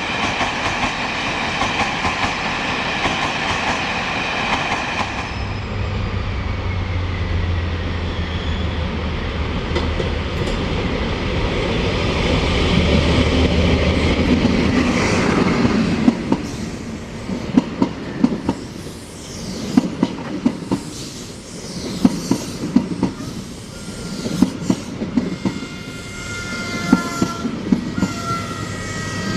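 A passing train: a rumbling drone that builds, then wheels clattering over rail joints in a regular beat of about one a second. A faint high-pitched squeal comes in near the end.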